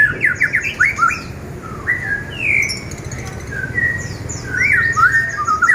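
Caged songbird singing a loud, varied song of clear whistled notes and quick rising and falling sweeps in rapid runs, over a steady low hum.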